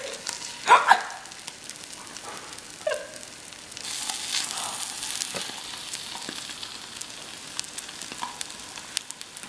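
French toast sizzling in a nonstick frying pan while a wooden spatula scrapes and taps against the pan. There are a few sharp, louder sounds about a second in, and the sizzle gets louder about four seconds in.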